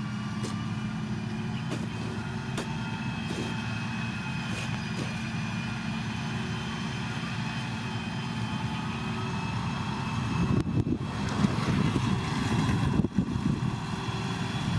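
Diesel engine of heavy road-building machinery running steadily, growing louder and rougher about ten seconds in.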